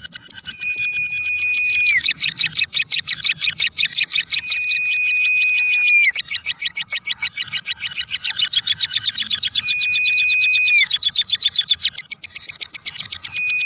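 Lovebird ngekek: a long, unbroken run of rapid, shrill chattering notes. A clear whistled tone, held a second or more and dropping at its end, comes in four times over it.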